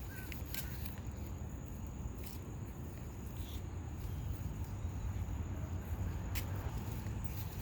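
Steady high insect trill over a low outdoor rumble, with a few scattered sharp clicks.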